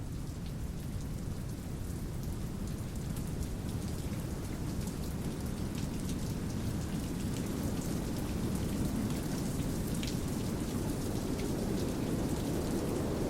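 Steady rain, with scattered drops ticking sharply over a heavy low rumble, growing gradually louder.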